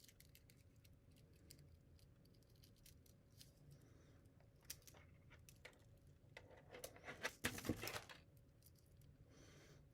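Faint handling of plastic filament and tape: scattered small clicks and ticks, then a louder crinkling, tearing rustle for about a second and a half near the end.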